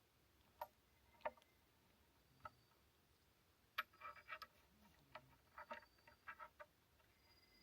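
Near silence with faint, irregular clicks and ticks, some coming in quick little clusters.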